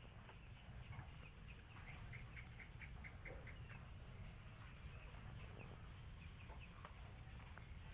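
Mostly near-silent background with a quick run of about seven short, high chirps from a bird, a little under two seconds in, and a few faint clicks.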